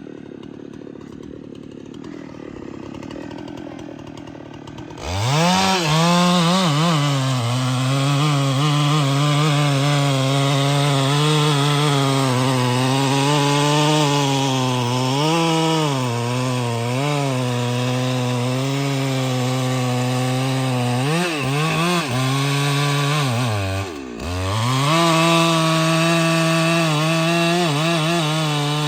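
Chainsaw cutting a tree: lower for the first five seconds, then suddenly throttled up and held at high speed, its pitch wavering as the chain bites into the wood. It drops briefly near the end before picking up again.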